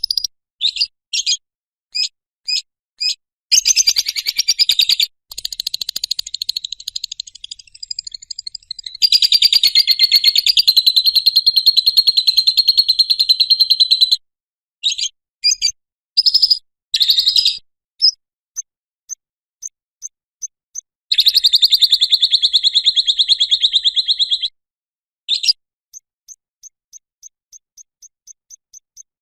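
Lovebird giving its 'ngekek' call: short high chirps, then long, rapid, high-pitched chattering trills, the longest about five seconds. Between the trills come fainter, evenly spaced ticks, about three a second.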